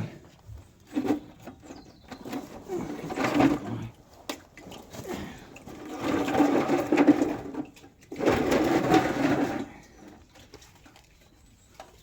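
Rough scraping and grating in three bursts of one and a half to two seconds each, with a few short knocks between: the heavy fuel tank and its wooden packing blocks being shifted and slid.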